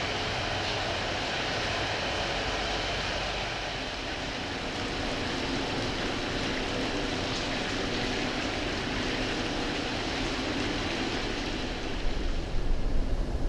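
Steam locomotive working, heard as a steady rushing roar. Near the end, low buffeting of wind on the microphone comes in.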